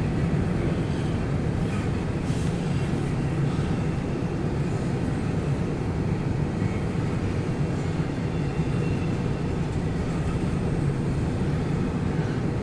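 CSX intermodal freight train rolling past, a steady, even rumble of its wheels on the rails.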